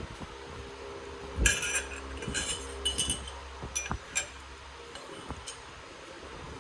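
Light metallic clinks and taps of tools or small parts being handled, a quick cluster of them a second and a half in and a few single clinks later, over a low steady hum that stops near the end.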